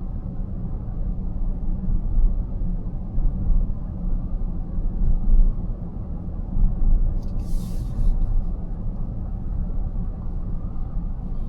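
Steady low road and tyre rumble of a car at highway speed, heard inside the cabin, with a brief hiss about seven and a half seconds in.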